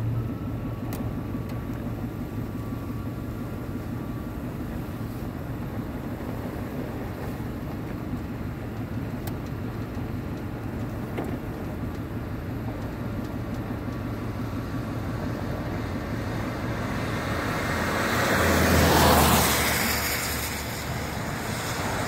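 A car driving along a road: steady engine and tyre rumble. About eighteen seconds in, a louder whoosh swells and fades away, and another begins near the end.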